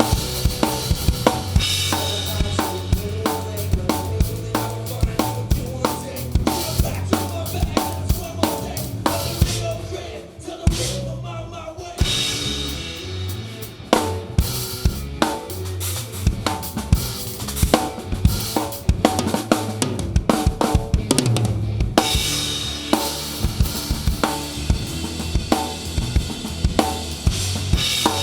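Live rock band playing, with the drum kit loud and close: kick, snare and cymbals driving a steady beat over bass. The drumming thins out briefly around ten seconds in, then the full beat comes back.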